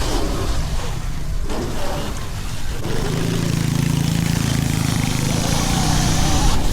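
Small motorbike engine running at a steady pitch for the second half, over a low rumble of wind on the microphone.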